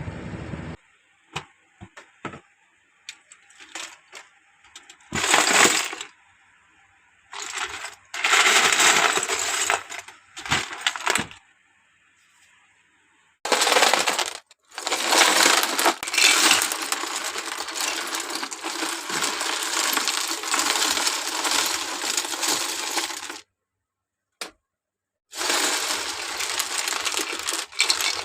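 Loose plastic Lego pieces clattering and rattling against each other in several bursts, with one long stretch of continuous rattling in the middle.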